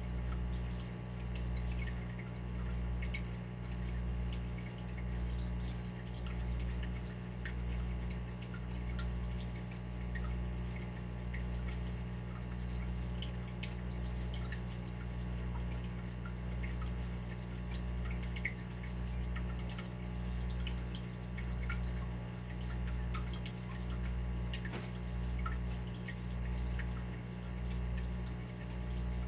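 Water dripping, scattered small drops falling over a steady low hum that swells and fades about once a second.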